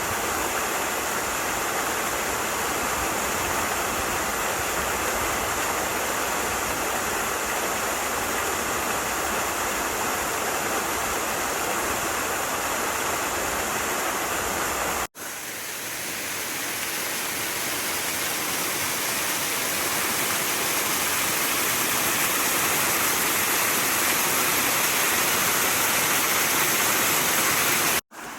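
Mountain stream water rushing over rocks in a steady wash. It cuts off abruptly about halfway, then resumes and grows gradually louder toward the end.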